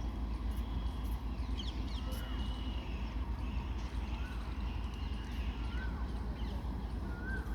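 Steady low rumble of a long goods train running past, with short bird calls and chirps heard over it several times.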